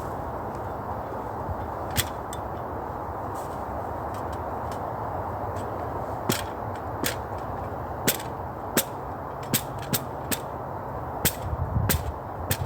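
Dry sticks and twigs snapping with sharp cracks, one early and then about ten more coming closer together in the second half, over a steady rushing background.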